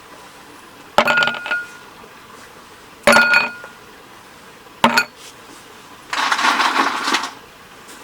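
Camp tableware clinking: three separate knocks about two seconds apart, each with a brief ringing tone, then a noisy stretch lasting about a second near the end.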